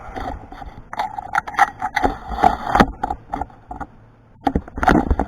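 Handling noise from a camera on a magnetic-base holder being shifted and set against a metal machine table: irregular knocks, clicks and scraping, with a brief lull before a last cluster of knocks.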